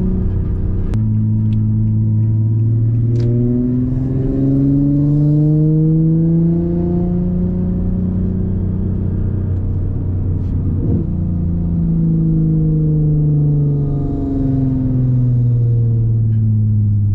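V6 engine running through a custom titanium single-exit exhaust with ART cats and a titanium Y-pipe as the car accelerates: the revs climb steadily for several seconds, hold, then fall away as it slows near the end.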